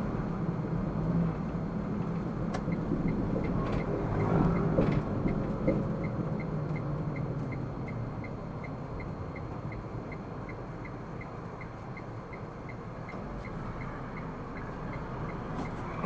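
Car driving, heard inside the cabin: a steady low rumble of engine and tyres, with the turn-signal indicator ticking about twice a second from about three seconds in until near the end.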